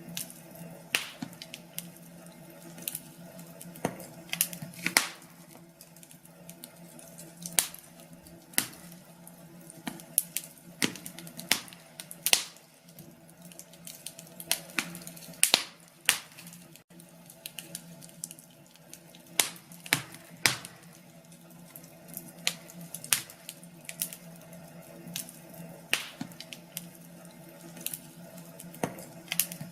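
Wood fire crackling in a fireplace: irregular sharp pops and snaps at uneven intervals, several of them louder, over a faint steady low hum.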